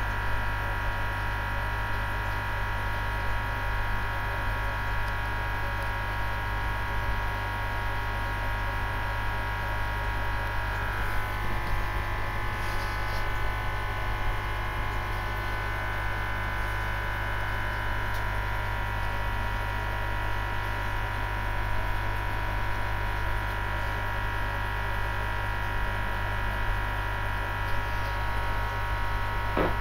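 Aquarium pump humming steadily, a low hum with several steady higher tones over it.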